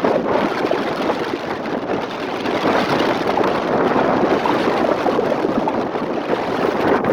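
A steady rush of rough sea in strong wind, with waves churning and wind on the microphone.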